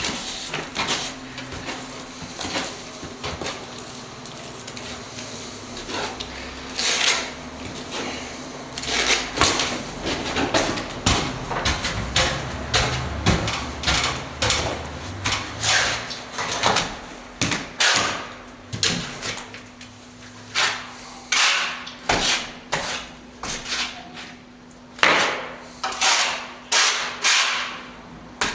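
Steel plastering trowel scraping and knocking wet render in many short, irregular strokes, with a faint steady hum underneath.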